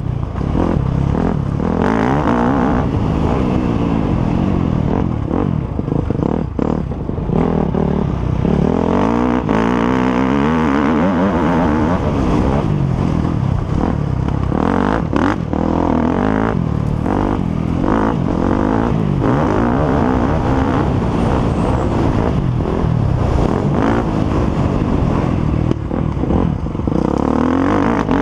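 Motocross motorcycle engines racing, several at once, revving up and down over and over in rising and falling pitches.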